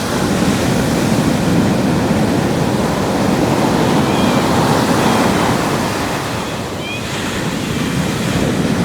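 Ocean surf breaking and washing up the beach in a steady rush that eases briefly and then swells again, with wind on the microphone.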